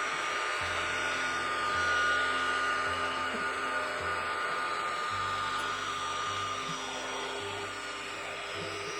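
Milling machine running steadily while engraving scale lines: an even motor and spindle whir with a faint high whine.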